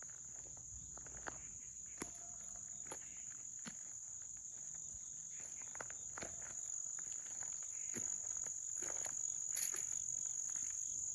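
A steady, high-pitched insect chorus drones without a break. Scattered light clicks and rustles come and go over it, and the whole grows slowly louder toward the end.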